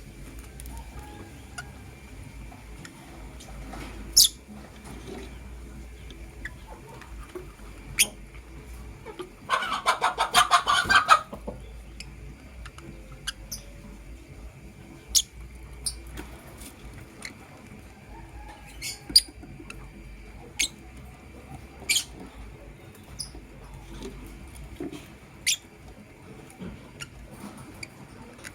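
Lovebirds giving short, sharp chirps every second or two. About a third of the way in there is a burst of rapid chattering calls lasting about two seconds, the loudest part.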